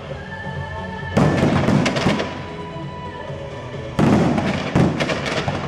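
Fireworks exploding in two loud bursts, about a second in and again about four seconds in, each followed by a second or so of crackling, with music playing underneath.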